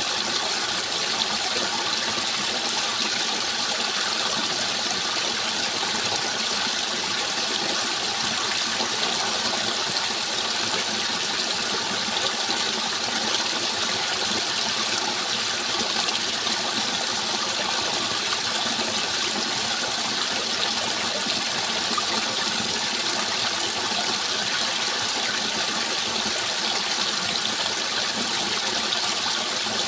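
Flowing water rushing steadily, an even hiss-like wash with no change in level.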